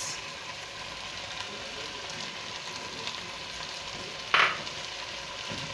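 Chicken and potato pieces sizzling steadily in a stainless steel pot as diced carrots are tipped in, with one short sharp knock about four seconds in.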